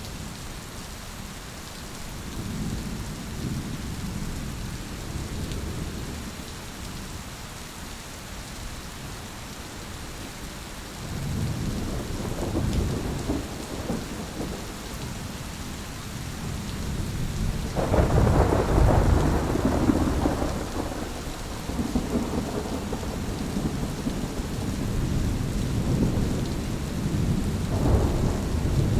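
Steady rain with thunder rumbling again and again. The thunder swells several times, and the loudest, deepest roll comes about two-thirds of the way through.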